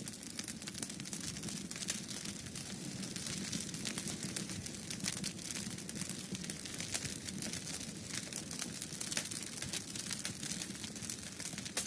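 Fireplace wood fire crackling, with many irregular sharp pops and snaps over a steady low rushing of the flames.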